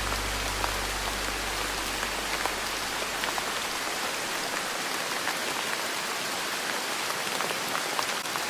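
Steady rain falling, an even hiss with scattered drop ticks. A low note from soft background music fades out over the first few seconds.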